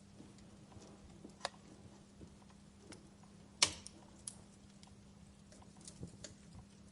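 Wood fire in a fireplace crackling with scattered sharp pops, the loudest about halfway through.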